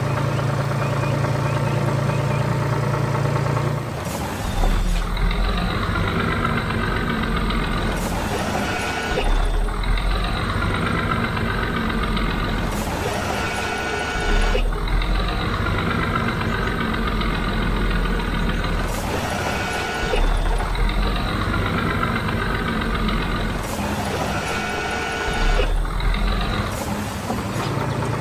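Cartoon truck engine sound effect running with a steady low hum, then a pattern that repeats about every five seconds.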